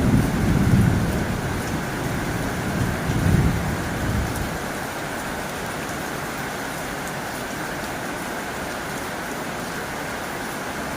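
Heavy rain drumming on a tin roof as a steady, dense hiss. A low rumble swells and fades over the first four seconds.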